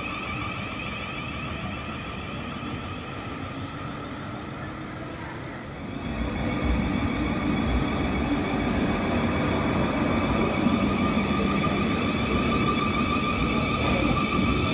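Train running through the station with a steady whine of several pitches; about six seconds in a low rumble swells as it draws nearer and stays loud.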